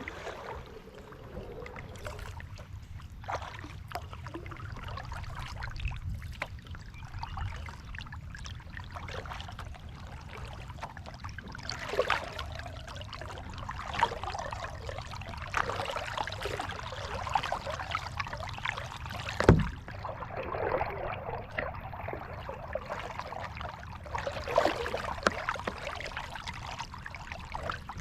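Kayak paddling: uneven splashes and trickles of water from the paddle strokes, swelling every few seconds. A single sharp knock about two-thirds of the way through is the loudest sound.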